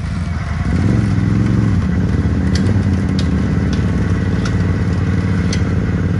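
An ATV engine running, rising in pitch and loudness about 0.7 s in and then holding at higher revs under load while it pulls a stuck ATV out of mud, with a few sharp clicks on top.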